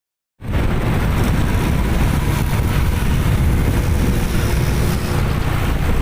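Truck on the move: a steady, loud engine and road rumble that cuts in suddenly about half a second in.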